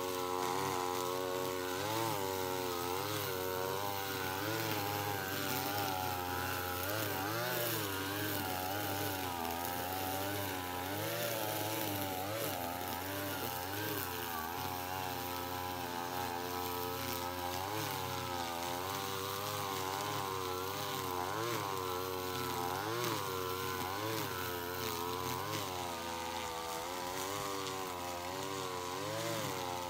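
Echo 210 two-stroke string trimmer running continuously while weeding, its engine pitch rising and falling as the throttle is squeezed and eased.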